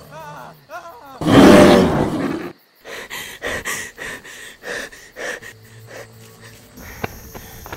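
A loud, growling, roar-like monster cry lasting about a second, preceded by a few short wavering cries; it fits a zombie snarl. It cuts off suddenly, followed by scattered faint clicks and rustles, with crickets starting to chirp near the end.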